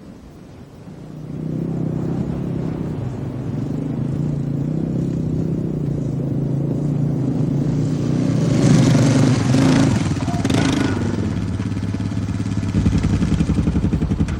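A motor vehicle's engine comes in about a second in and keeps running, its pitch stepping up and down as it is driven.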